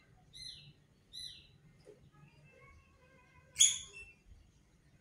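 Small bird chirping: two short, high, falling chirps within the first second and a half, then one louder, sharper chirp about three and a half seconds in.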